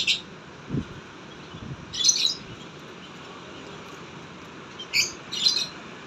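Small bird chirping: brief runs of rapid, high chirps about two seconds in and again about five seconds in.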